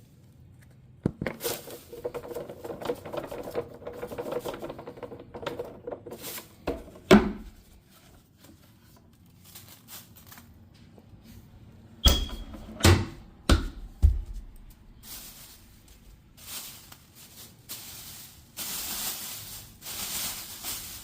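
Handling noise from emptying vacuumed carpet debris: rustling with several sharp knocks, a cluster of three about twelve to fourteen seconds in.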